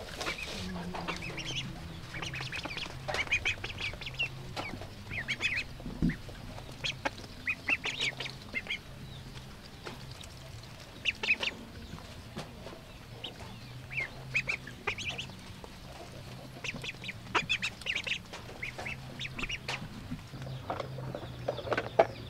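Ducks calling: short, high-pitched calls in quick clusters every second or two, over a steady low hum.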